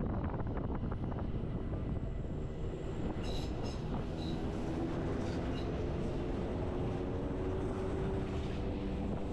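Narrow-gauge electric train of the Bernese Oberland Railway running at steady speed, heard from on board: continuous rumble of wheels on rail, with a steady hum coming in about three seconds in and a few brief high squeaks soon after.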